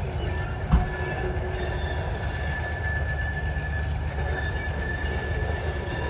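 Freight cars rolling slowly past, their wheels rumbling steadily on the rails under one high, steady wheel squeal. A single sharp clank comes about three-quarters of a second in.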